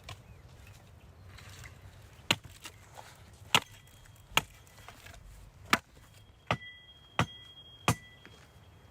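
Seven sharp blows from a hand tool striking, roughly one every second, from about two seconds in to near the end; several of the later blows leave a short high ring.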